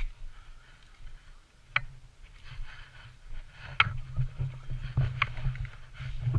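Scattered airsoft gunfire: single sharp cracks one to two seconds apart, over a low rumble that grows louder from about four seconds in.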